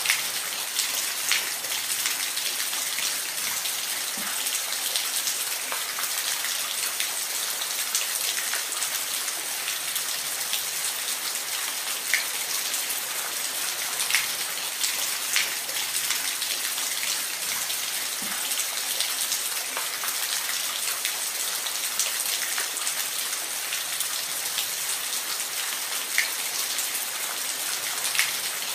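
Steady rain falling, an even hiss of drops with occasional sharper ticks scattered through it.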